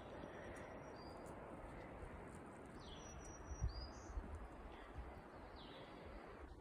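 Songbirds giving scattered short chirps, a few sliding downward, over a steady faint hiss of outdoor background noise.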